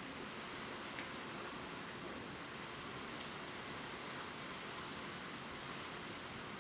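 Gentle rain falling steadily on leaves, a soft even patter with a few distinct drips, one sharper about a second in.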